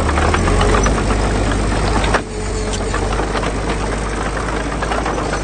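Diesel engine of heavy construction machinery running steadily, with scattered metallic clanks and a sharp knock about two seconds in.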